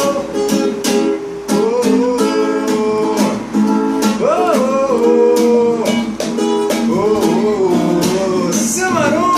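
Acoustic guitar strummed in a steady rhythm, with a voice holding and bending long notes over it without words.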